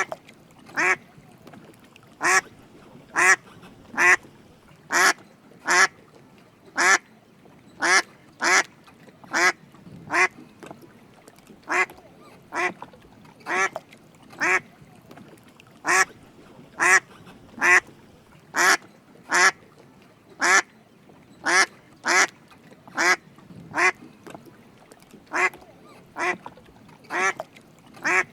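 Drake mallard quacking: short calls repeated over and over, about once or twice a second, at slightly uneven spacing.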